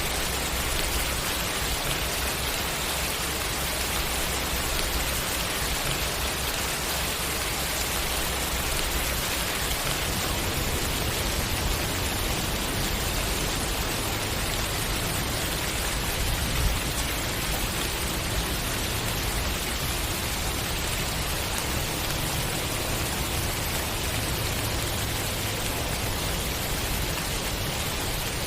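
Steady rain falling, an even hiss of drops on a surface without any pauses, with one slightly louder drop or tap a little past halfway.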